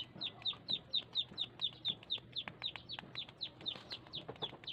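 A bird chirping without a break: quick, high chirps that slide downward, about five a second.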